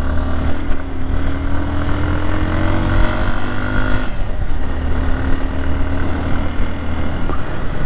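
Hero Xpulse 200 motorcycle's single-cylinder engine running under way, its note climbing slowly, dipping briefly about four seconds in, then holding steady, over a steady rush of noise.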